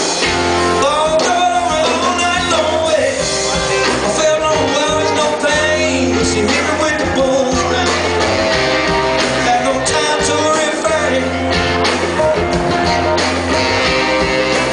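Live band playing an upbeat rock and soul number: electric guitar over a steady bass line and drums.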